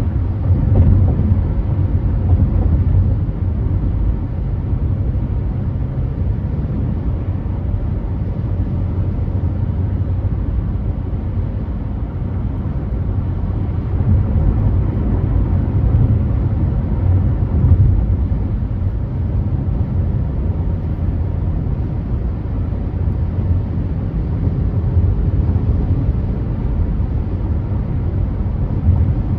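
Car driving at freeway speed: a steady low rumble of road and engine noise.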